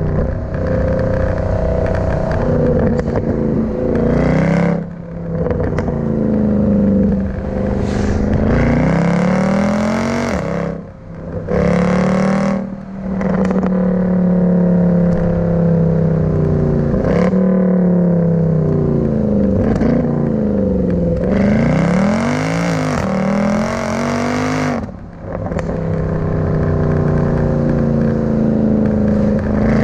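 Mercedes C63's 6.2-litre V8 engine driven under load. Its pitch climbs and drops over and over as it revs through the gears, with brief lifts in between.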